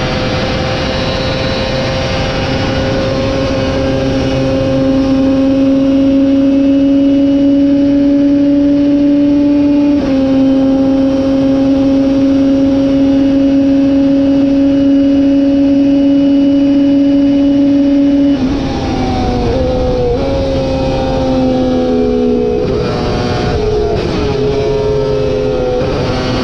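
Superbike engine held at high revs under full throttle, with one upshift about ten seconds in. After nearly twenty seconds the throttle closes suddenly and the engine drops through several quick downshifts, braking for a corner.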